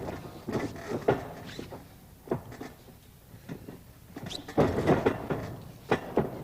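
Irregular thumps and scuffs of two wrestlers grappling on the ring mat, with a louder flurry about two-thirds of the way through.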